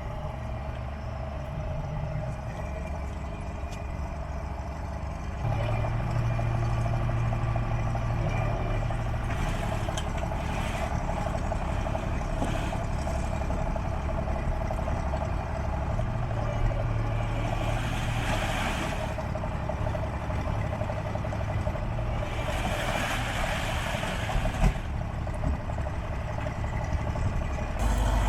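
Diesel engine running steadily, its revs and loudness picking up about five seconds in. Two stretches of rushing, hissing noise ride over it in the second half.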